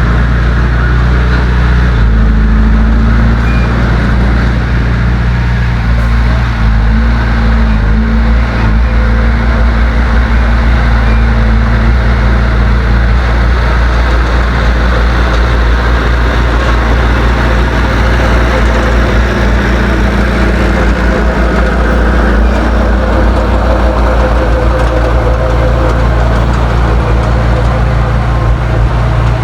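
Heavy diesel engine of earthmoving machinery running loud and steady, its pitch shifting slightly now and then.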